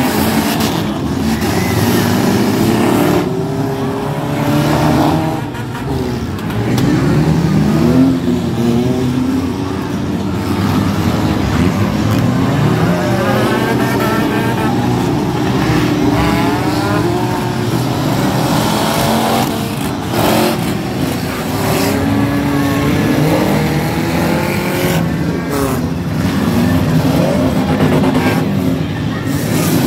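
Demolition-derby cars' engines revving and running together, many pitches rising and falling over one another.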